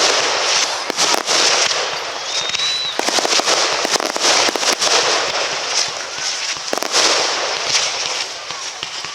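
Fireworks display: dense crackling and popping with many sharp reports in quick succession.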